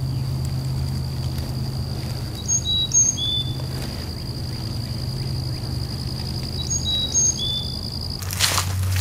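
A songbird calls twice, each time a short phrase of three or four quick chirps, about four seconds apart. Under it run a steady low hum and a thin, constant high whine. Near the end some rustling starts.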